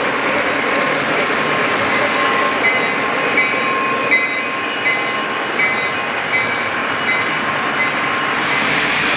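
Lionel model train running on the layout track: a steady rumble of wheels and motor, with a regular click about every three-quarters of a second as the wheels cross the rail joints.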